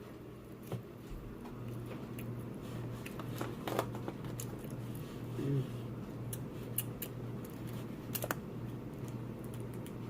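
Scattered sharp clicks and crackles of crab and crawfish shells being handled and cracked while eating, over a steady low hum.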